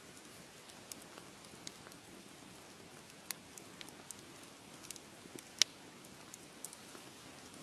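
Wood fire crackling: irregular sharp pops and ticks over a soft steady hiss, with two louder pops, the louder one about three quarters of the way through.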